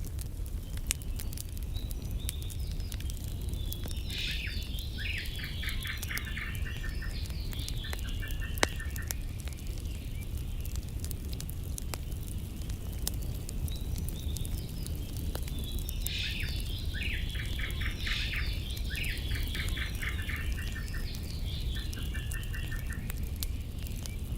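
A songbird singing two long phrases about eleven seconds apart, each a run of chirps ending in a fast trill. Underneath are a steady low rumble and scattered sharp crackles from a wood campfire.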